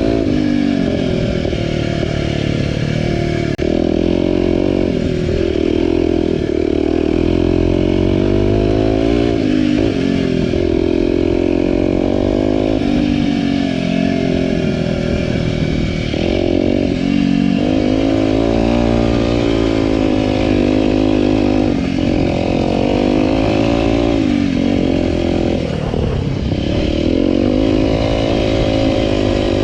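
Aprilia RX125 4T's single-cylinder four-stroke engine, breathing through an aftermarket Snell silencer with a dB killer fitted, revving under way. Its pitch climbs and drops back again and again as the throttle opens and the gears change.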